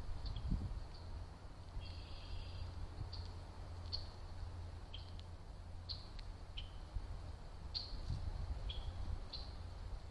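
Small birds giving short, high chirps every second or so, some dropping slightly in pitch, with one longer buzzy call about two seconds in, over a low steady rumble.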